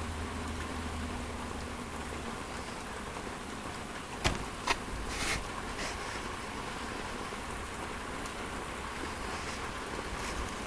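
Heavy rain pouring steadily. Two sharp clicks come about four seconds in, followed by a brief rustle.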